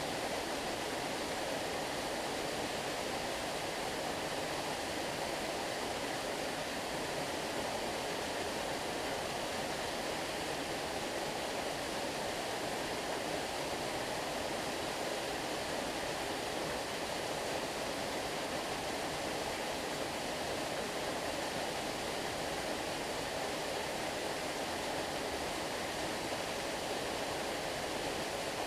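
Running stream water: a steady, even rush that does not break or change.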